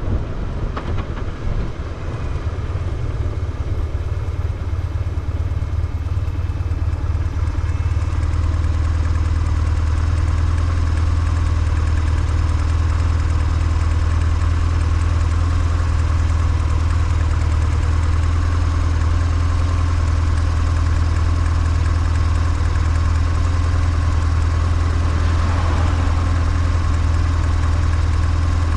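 BMW R1150GS boxer twin engine idling steadily. It settles into an even idle within the first few seconds.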